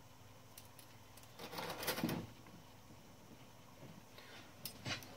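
Small metal typewriter parts being handled: a cluster of clicks and light rattling about a second and a half in, the loudest part, and a few sharp clicks near the end.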